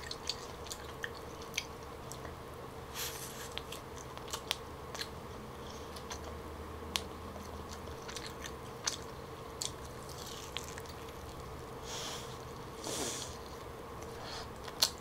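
Close-up mouth sounds of a person biting and chewing smoked turkey leg: scattered wet clicks and smacks, with a few short soft noisy swishes a few seconds in and again near the end. The skin is chewy. A faint steady hum runs underneath.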